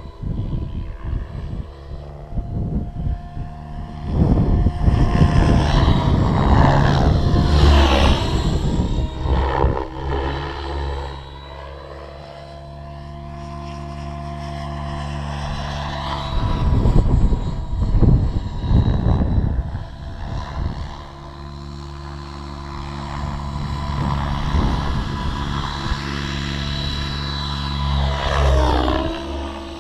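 Align T-Rex 700 Pro radio-controlled helicopter flying: the whine of its rotors and drive glides up and down in pitch several times as it passes and manoeuvres, with gusts of wind buffeting the microphone.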